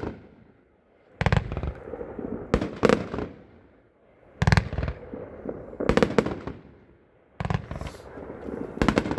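A 20-shot consumer firework cake firing, about one shot every second and a half. Each shot is a sharp launch and burst followed by a crackling glitter tail.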